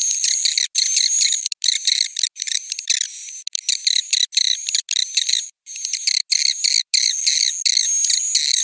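Swiftlet roosting-call ('suara inap') lure recording: rapid, high-pitched twittering of edible-nest swiftlets in short runs with brief breaks, with a steady high whistle tone running through parts of it. The sound is played in swiftlet houses to draw the birds in to roost.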